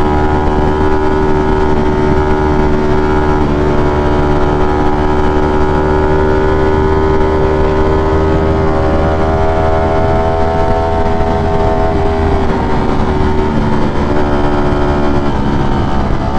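V4 sport motorcycle engine running under way, its pitch creeping up steadily for most of the stretch, falling back about three-quarters through, then climbing again near the end, over a steady rumble of wind and road.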